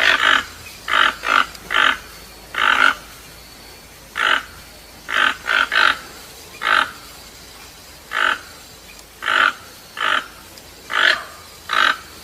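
A bird giving a series of short, harsh, croaking calls, about fifteen, spaced irregularly, some in quick pairs or threes.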